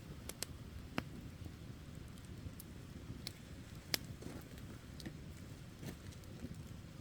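Wood campfire burning, with irregular sharp crackles and pops over a low rumble of the flames.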